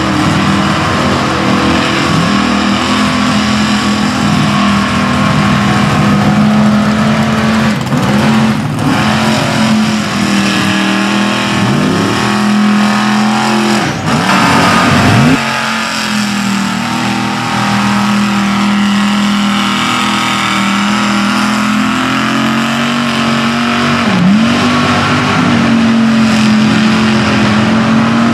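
GMC mega truck's engine held at high revs on a mud bog run, a steady loud note. Its pitch dips and climbs back several times, most sharply about twelve to fifteen seconds in and again near the end.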